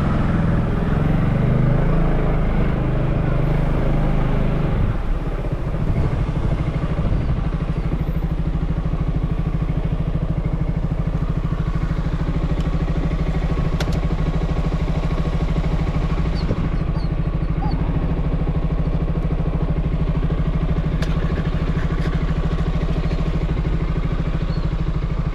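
Motorbike engine running, louder for the first few seconds, then settling about five seconds in to a steady idle.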